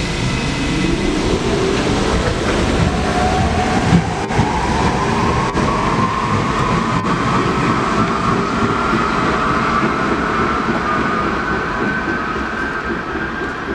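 Train pulling away, its whine rising steadily in pitch and levelling off near the end, over a rumble of wheels on rail with a few sharp clicks in the middle.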